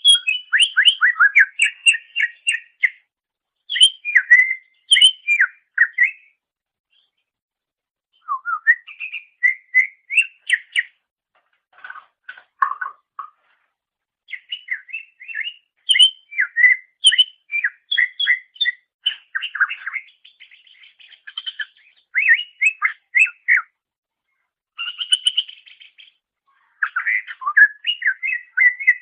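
Cucak ijo (green leafbird) singing: phrases of rapid chirps and whistled notes, each a few seconds long, broken by short pauses, with a longer pause a little before the end.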